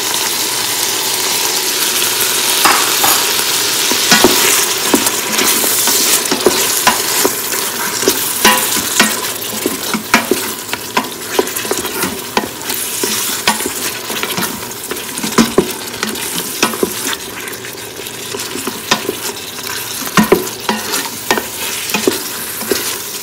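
Meat and masala sizzling as they fry in an Instant Pot's stainless steel inner pot, with a spatula stirring and scraping through it and clicking against the sides of the pot many times.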